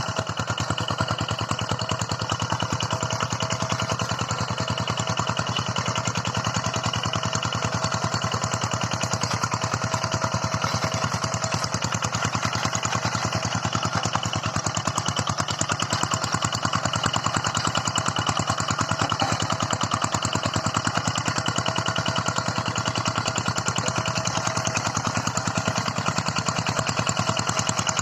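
Tractor engine running steadily at an even speed, with a fast, regular firing beat.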